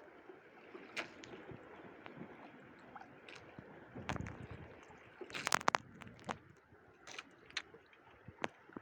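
Water sloshing and lapping, with scattered sharp clicks and knocks; a thud about four seconds in and a quick cluster of clicks just after halfway are the loudest moments.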